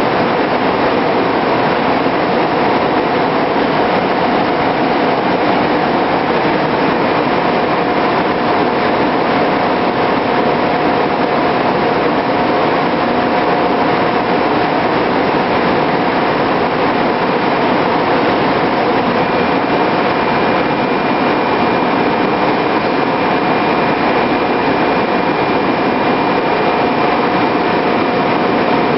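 A 3600 RPM vertical electric motor running: a loud, even machinery noise with a steady whine, and a second, higher whine joining about two-thirds of the way through.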